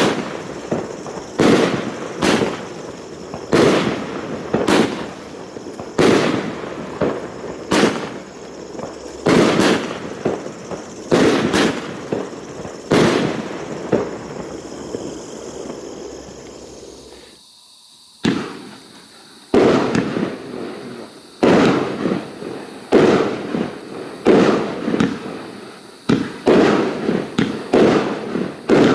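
Funke Argento 'Urania' consumer firework battery firing shot after shot, a sharp bang about once a second, each trailing off. A short lull a little past the middle, then the shots resume.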